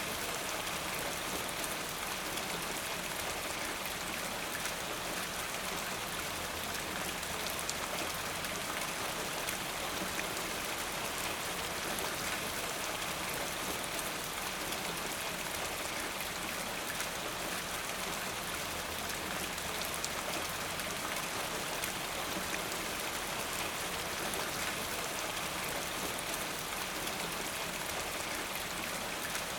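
Steady rain falling, a dense even hiss of drops with faint individual patters, unchanging throughout.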